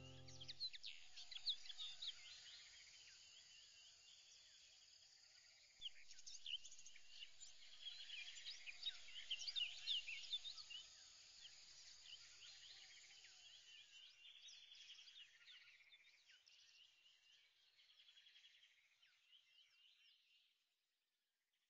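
Faint chorus of many short bird chirps and whistles, fading away near the end.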